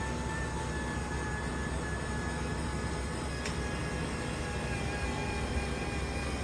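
Motorhome's engine idling with a steady drone and a steady high whine, heard inside the coach.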